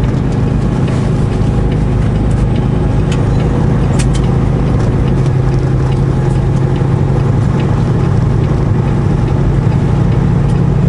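Semi truck's diesel engine running steadily under way, heard from inside the cab, with a few brief clicks a couple of seconds in.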